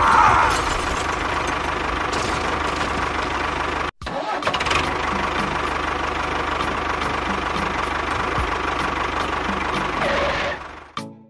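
Tractor engine running steadily, with a short break about four seconds in, fading out near the end.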